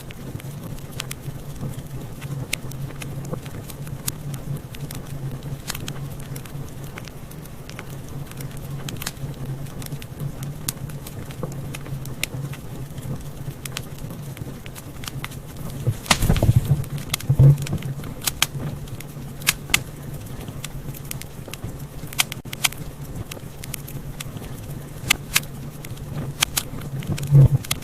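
Fire crackling in a fireplace: scattered sharp pops and snaps over a low steady rumble, with a flurry of louder pops about sixteen seconds in and another near the end.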